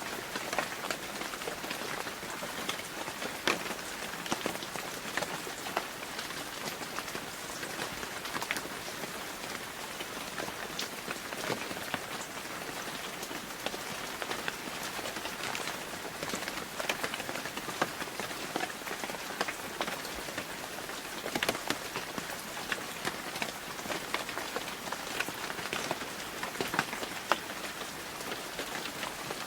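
Steady rain falling, with many close drops pattering on a hard surface.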